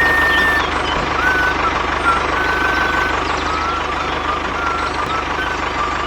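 Mini tractor's engine running steadily with a low rumble, with a steady whine and short high whistle-like tones over it.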